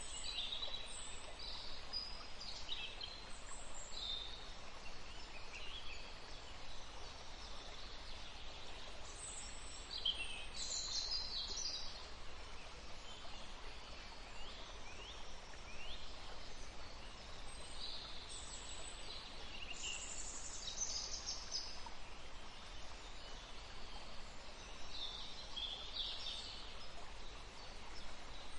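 Forest songbirds chirping and trilling in short, scattered calls, several birds overlapping, over a steady low hiss of background ambience.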